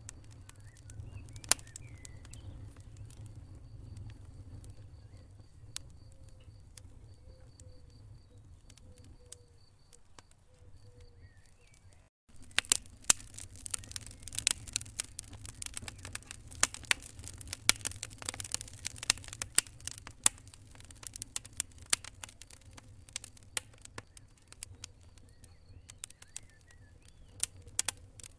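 Wood fire crackling and popping in a fireplace over a low rumble of flames. About twelve seconds in, the sound cuts out for a moment. After that the crackling is denser and louder for several seconds.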